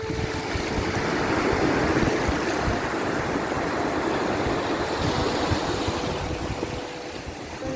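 Sea waves washing in, a continuous rushing surf that swells to its loudest about two seconds in and eases off toward the end.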